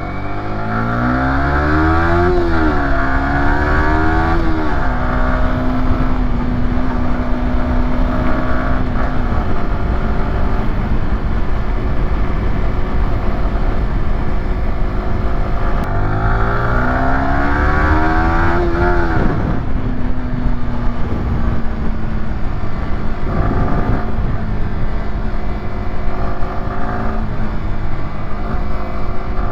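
Yamaha YZF-R125's single-cylinder four-stroke engine accelerating hard through the gears twice, the revs climbing and dropping back at each upshift. Each run settles into a steady cruising note.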